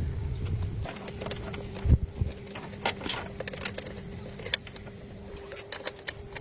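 Scattered sharp clicks and knocks, like tools being handled on metal, over a steady hum, with a heavier thump about two seconds in.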